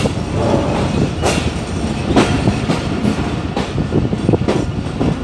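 Pakistan Railways ZCU-30 diesel-electric locomotive running with its train, a steady low rumble under irregular sharp wheel clacks as the wheels cross the points from the main line onto the loop line.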